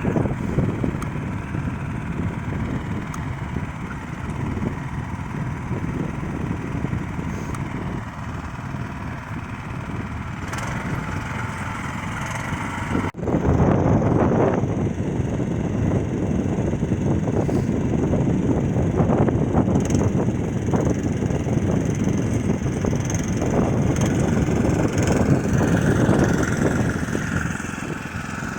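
Neva MB23 walk-behind tractor's engine running steadily under load as it pushes snow with a front blade. The sound jumps louder after a break about halfway through.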